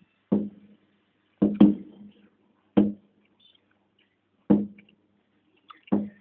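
Fireworks going off: six sharp bangs at irregular intervals, each dying away quickly with a low ring, two of them close together about a second and a half in.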